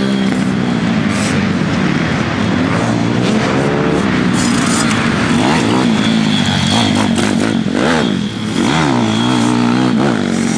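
Pit bike single-cylinder four-stroke engine revving up and down repeatedly as it is ridden, with a brief throttle-off dip about eight seconds in.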